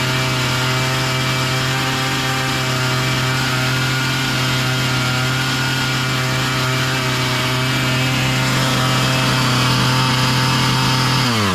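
Husqvarna 445 two-stroke chainsaw engine idling steadily but far too fast, a sign of a carburettor idle out of adjustment. Near the end it is switched off and its pitch falls quickly as the engine winds down.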